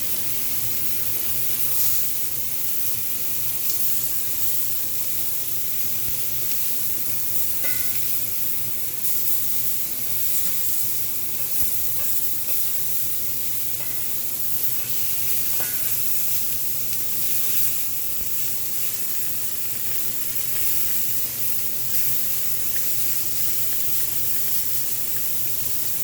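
Beef sizzling on a Korean barbecue grill: a steady frying hiss over a low hum.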